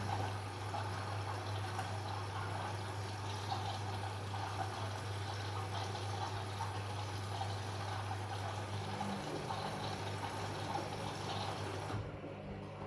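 Washing machine with water rushing through it over a steady low hum; the hum drops out and a slightly higher hum takes over about nine seconds in, and the rush of water stops near the end.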